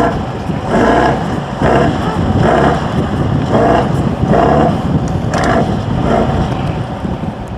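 Heavy off-road trial truck's engine working hard, its note surging and easing about once a second.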